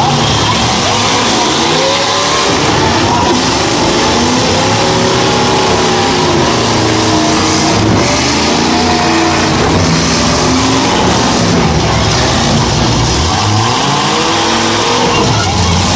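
Demolition derby cars' engines revving hard, their pitch rising and falling again and again as the cars spin their wheels in the dirt and ram each other, with a few thuds of impacts.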